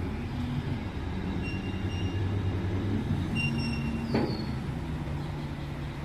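Heavy diesel engine working under load as a big-rig wrecker pulls a stuck semi truck out, its pitch shifting as it pulls. There is a knock about four seconds in and a few brief high squeaks.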